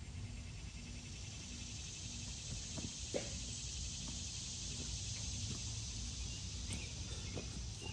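Steady high chirring of insects, over a low rumble, with a few faint soft knocks about three seconds in and again near the end.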